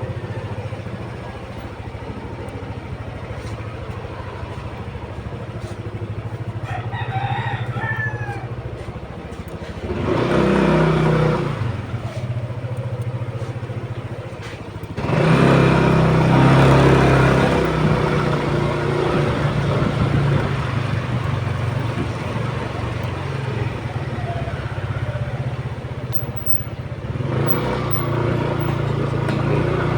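Motorcycle engine running steadily on the ride, growing louder in surges about ten seconds in and again about fifteen seconds in. A rooster crows once about seven seconds in.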